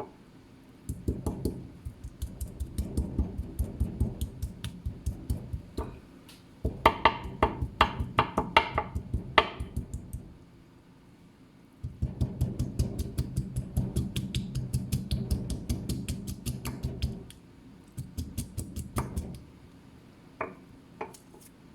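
Kitchen knife chopping rapidly on a cutting board, about five strokes a second, mincing chicken with ginger by hand. It comes in several runs with short pauses; a louder run in the middle has a ringing clack.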